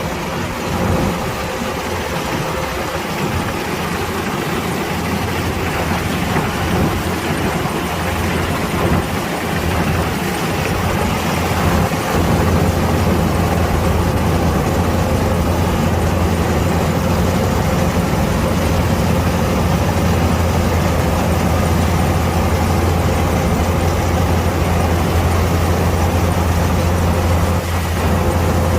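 Kubota DC-105X combine harvester's diesel engine running steadily under load, its low hum getting a little louder and more even about twelve seconds in.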